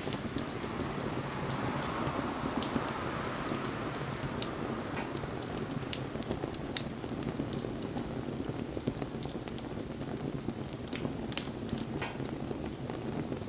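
Wood campfire burning: a steady hiss with scattered crackles and sharp pops, the loudest pop about four seconds in. A softer hiss swells and fades over the first few seconds.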